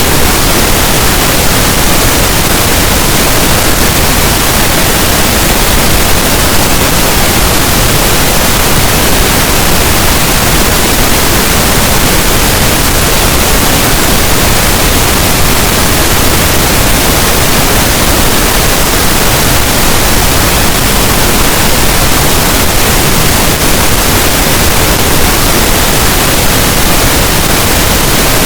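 Loud, steady pink noise: an even, unbroken hiss spread across all pitches from deep to high, with no changes or breaks.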